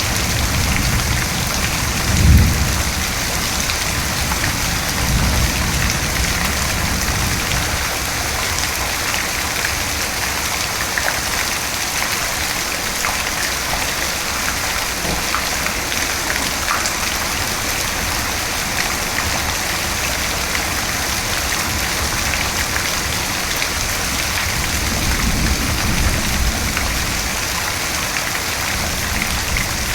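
Steady rain falling, with low rumbles of thunder: a brief louder one about two seconds in, and softer rolling ones around five seconds in and near the end.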